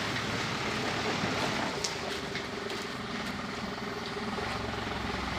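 Truck running along the road: a steady engine rumble and road noise, with a faint steady hum and a few light clicks.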